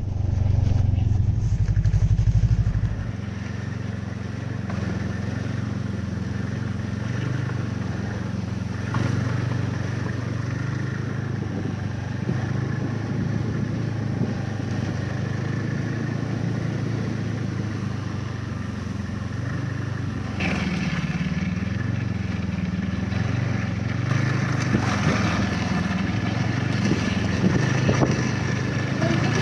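Snowmobile engine running steadily under way, louder for the first three seconds, with its pitch rising and falling a little about two-thirds of the way through as the throttle changes.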